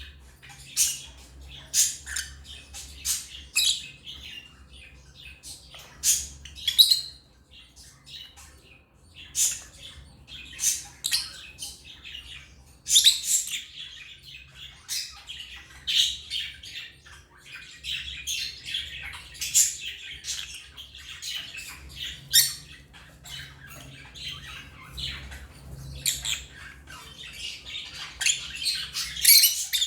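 African lovebirds calling: a steady string of short, high chirps, thickening into rapid chatter about two-thirds of the way in and again near the end.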